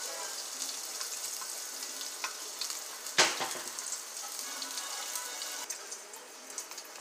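Pork fat sizzling and crackling in hot oil in a metal pot, with one sharp knock about three seconds in. Near the end a metal lid goes on and the sizzling turns quieter.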